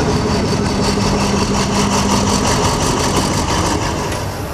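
Diesel locomotive engine running steadily with a deep even hum, easing off about four seconds in.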